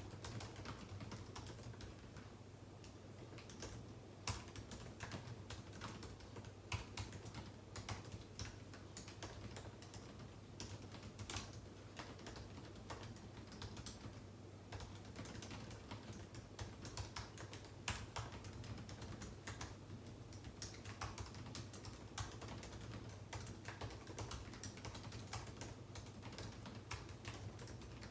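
Computer keyboard typing: a steady run of irregular key clicks, with occasional louder keystrokes.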